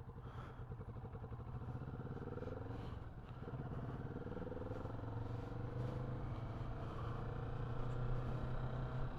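Kawasaki Vulcan S 650's parallel-twin engine pulling away under acceleration. Its pitch rises, drops at a gear change about three seconds in, then rises again and levels off to a steadier run.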